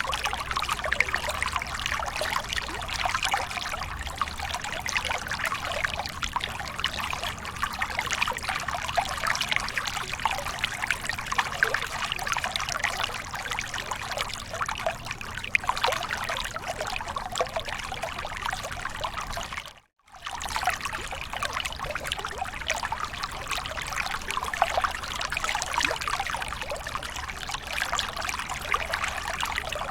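Waterfall water splashing and trickling in a steady rush, full of small splashes. About twenty seconds in it cuts out to silence for about half a second, then resumes.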